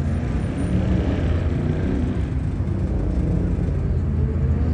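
Car engine and road noise: a steady low rumble with a slowly shifting hum.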